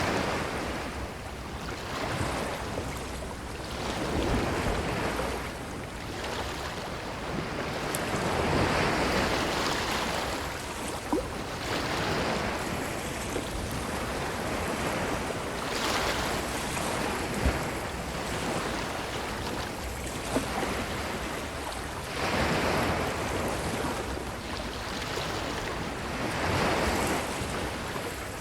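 Ocean waves breaking and washing up the beach, the surf swelling and falling away every few seconds. A few brief sharp clicks sound over it, the loudest about two-thirds of the way through.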